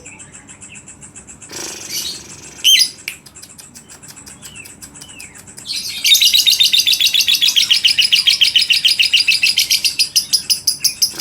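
Lovebird song: a few separate chirps over faint rapid ticking, then, about six seconds in, a loud, fast chattering trill of repeated high notes that keeps going.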